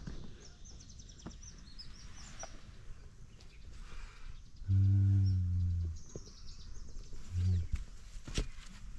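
Birds chirping outdoors in runs of short, high, falling notes. A deep, steady low call of about a second comes just before the middle, and a shorter one follows soon after.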